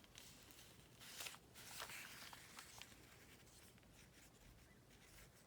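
Faint scratching and rustling of paper with a few light taps, between about one and three seconds in, as glue is applied along the edges of a paper pocket; otherwise near silence.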